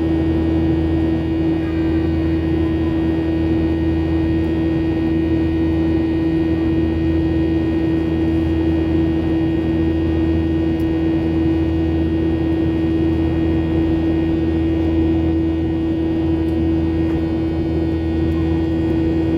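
Steady drone of jet engines and airflow heard inside an airliner cabin in flight, a constant humming tone over a low rumble and hiss.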